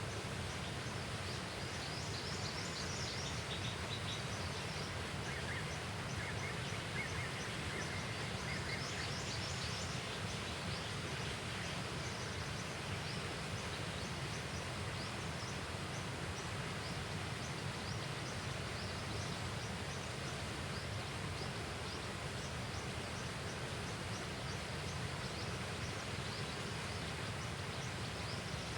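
Steady outdoor background noise, a constant even hiss, with faint high bird chirps and a short trill over it during roughly the first ten seconds.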